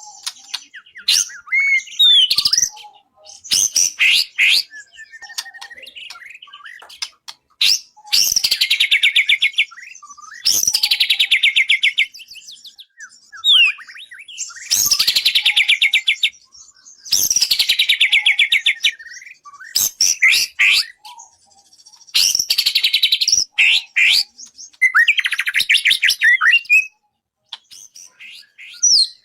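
White-rumped shama (murai batu) singing a varied song: short whistled notes and sharp clicks alternate with loud, rapid rattling trills about one to two seconds long, repeated every few seconds.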